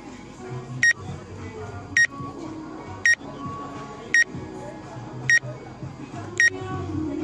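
A short, high electronic beep repeating evenly about once a second, six times, over low background music.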